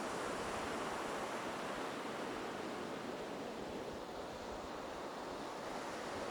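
Ocean surf washing onto the beach: a steady hiss of waves that swells a little at first and eases off slightly later.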